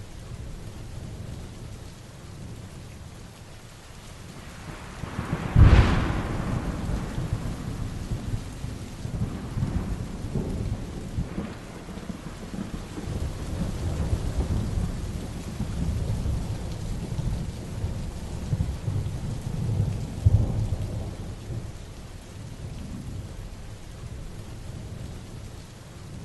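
Heavy rain falling steadily in a thunderstorm. A loud thunderclap cracks about six seconds in and rolls on as a long low rumble, with a second sharp crack around twenty seconds, easing off near the end.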